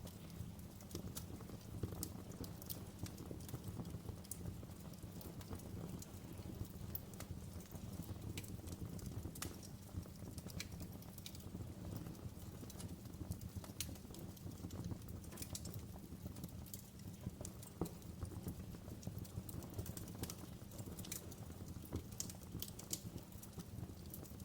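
Wood fire in a fireplace crackling: frequent sharp, irregular pops and snaps over a steady low rumble of the flames, with one louder pop about eighteen seconds in.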